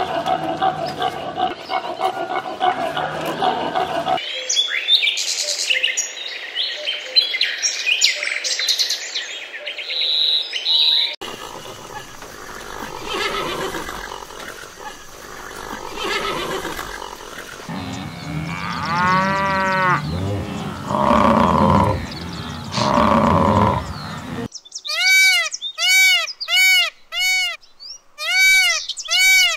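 A run of different animal calls, one after another in short cuts: a dense mix of herd calls, then high chirping, then a series of arching, braying calls with throaty cries, and near the end short, clear, rising-and-falling calls repeated about twice a second.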